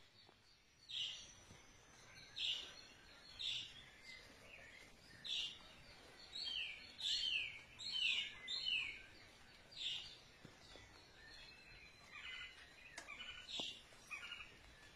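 A bird calling over and over in short, high notes that slide downward, about one a second, then a quicker run of short notes near the end, over faint outdoor background noise.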